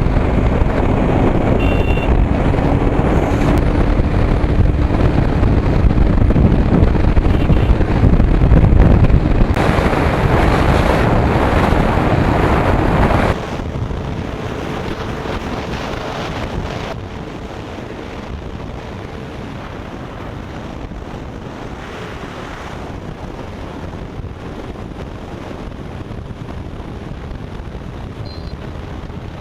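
Wind buffeting the microphone on a moving KTM Duke 200 motorcycle, with a faint engine drone underneath. About thirteen seconds in the noise drops suddenly, and a few seconds later it settles lower and steady.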